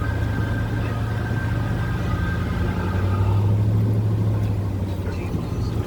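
Car engine idling while stopped, a steady low hum that grows slightly stronger about three seconds in, with a faint steady whine that fades out around the same point.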